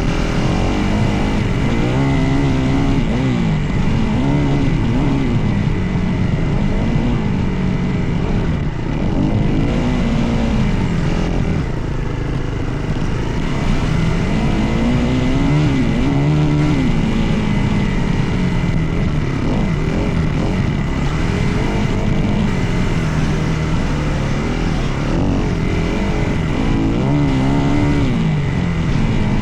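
Dirt bike engine revving up and easing off over and over as it is ridden, its pitch climbing and dropping every few seconds.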